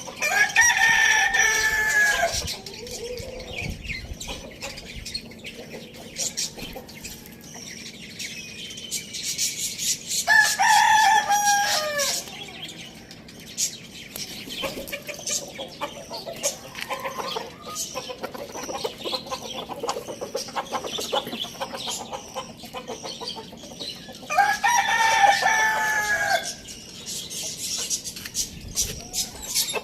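A rooster crowing three times: near the start, about ten seconds in and about 24 seconds in. Each crow lasts about two seconds and ends on a falling note. Between the crows, hens cluck and small birds chirp.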